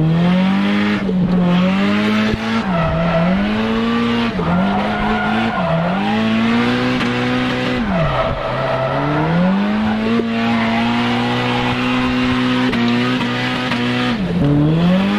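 Nissan Silvia S15 drift car's engine revving up and dropping back again and again, with a long stretch held at high revs, while the tyres squeal. The clutch is slipping, so the revs flare under load.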